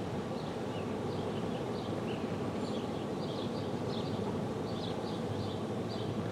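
A bird chirping over and over in quick short high notes, a few a second, over a steady low background hum.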